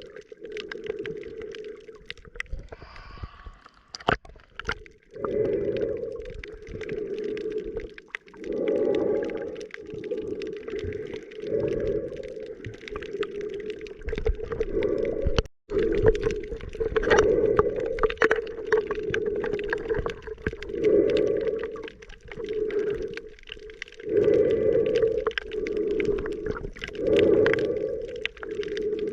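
Muffled underwater sound of a snorkeller breathing through a snorkel, with swells every two to four seconds, heard through a camera's waterproof housing.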